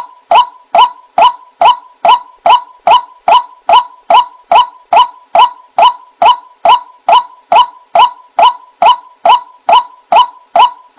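White-breasted waterhen calling: a steady run of short, sharp notes, about two and a half a second, each dipping slightly in pitch.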